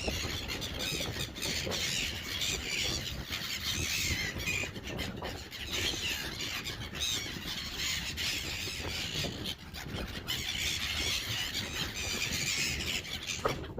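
A flock of gulls calling, many high cries overlapping one after another without a break.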